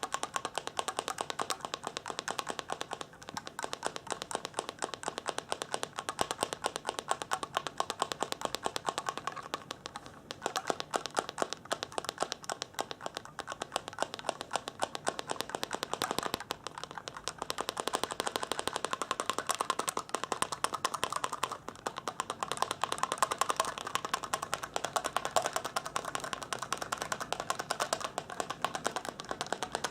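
Fast, continuous light tapping, many small taps a second, as an ASMR tapping trigger, easing off briefly a few times.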